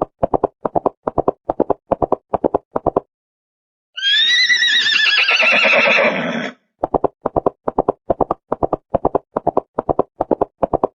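Horse hooves clip-clopping at a steady walk, about four beats a second, broken about four seconds in by a horse's whinny that falls in pitch, then the hoofbeats resume.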